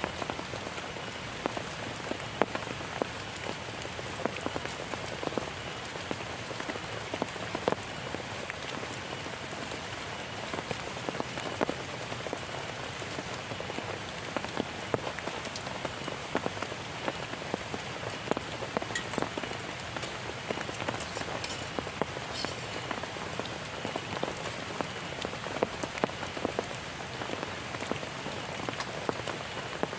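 Heavy rain falling steadily, with a constant hiss and many separate drops ticking sharply close by.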